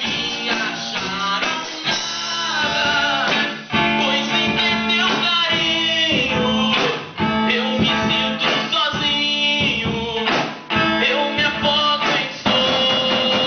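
Amateur band jamming an improvised rock-blues piece, with guitar to the fore.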